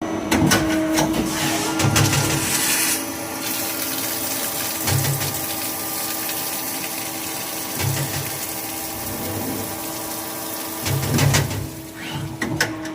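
CNC machine running: a steady machine hum with heavier low surges about every three seconds and scattered clicks, plus a spell of hiss about two seconds in.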